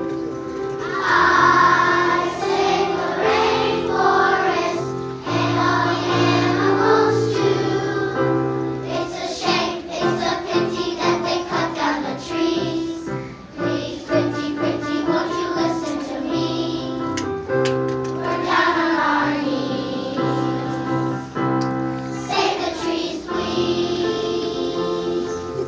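A choir of young children singing a song together over instrumental accompaniment with a steady bass line.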